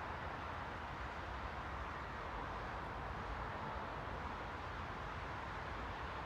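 Steady, unchanging white-noise hiss, strongest in the middle range and dull at the top, with a low rumble beneath.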